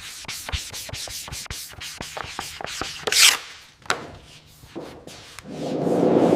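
Quick, repeated rubbing strokes on a hard surface, a short sharp hiss a little past the middle, then a swelling rush of noise near the end.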